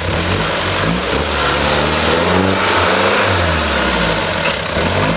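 First-generation Range Rover's engine revving up and down under load as the 4x4 crawls through a deep muddy rut, the revs climbing about two seconds in, dropping back a second later and rising again near the end.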